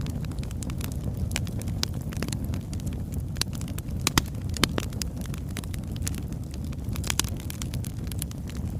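Oak logs burning in a fireplace: a steady low rumble of flame with irregular crackles and pops, a few sharper pops a little past the middle and a cluster of them near the end.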